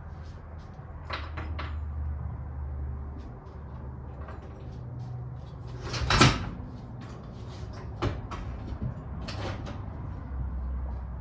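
Scattered clicks and knocks of metal parts and tools being handled while a motorized bicycle's engine is taken off, with the loudest knock about six seconds in.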